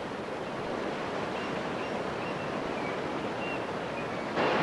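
Rushing river water, a steady wash of noise that steps up louder near the end, with a few faint high chirps over it.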